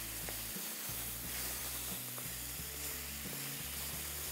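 Tomatoes sizzling in hot ghee in a steel kadai, stirred with a wooden spatula that taps the pan now and then, under background music of sustained low notes.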